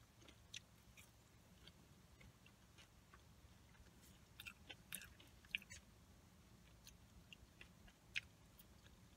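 Faint close-up chewing of fries and chicken strips, with scattered soft mouth clicks, a few louder ones about halfway through and one near the end, over a low steady hum.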